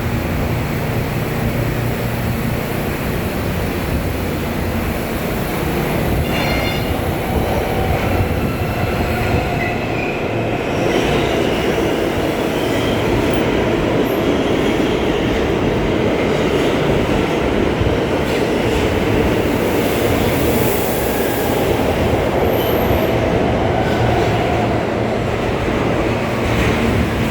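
New York City subway train running on the track, a steady rumble with a faint metallic wheel squeal in the middle and a slight rise in loudness about ten seconds in.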